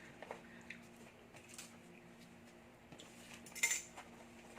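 Faint sounds of people eating at a table: scattered small clicks and ticks, with one brief louder rustle or clatter about three and a half seconds in, over a low steady hum.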